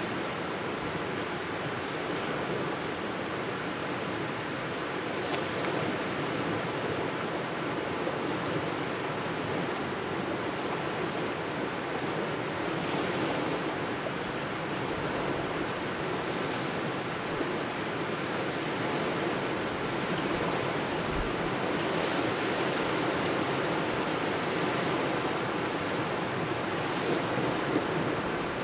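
Small waves washing and lapping steadily against the shore, with cold wind blowing and buffeting the microphone.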